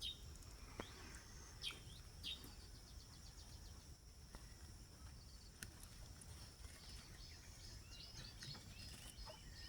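Faint birds chirping in short, scattered calls, over a steady high-pitched hum like insects singing.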